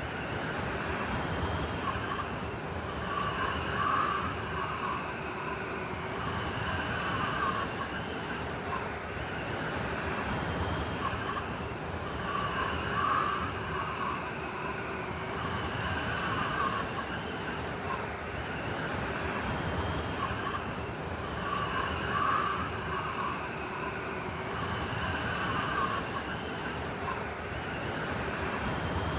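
Blizzard wind howling: a steady rush of wind with whistling tones that waver up and down and swell every few seconds.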